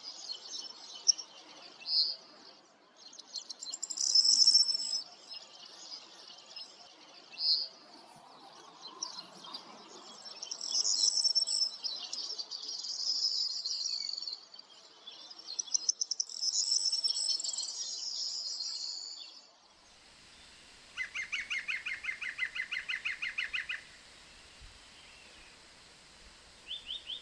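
Wild songbirds calling and singing in short high-pitched phrases, then, after a cut about twenty seconds in, a different bird giving a fast, even trill of repeated notes, twice.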